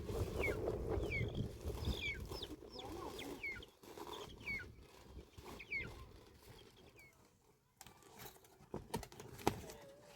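Small birds chirping: a run of short, falling chirps, about two a second, that fades out after about seven seconds. Rustling noise runs under the first few seconds, and a few sharp knocks come near the end.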